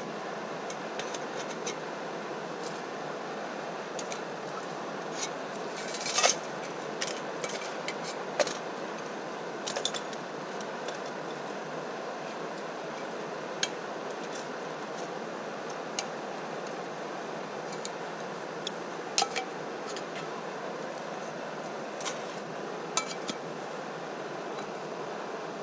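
A steady hiss with small clicks and clinks scattered through it, the loudest about six seconds in.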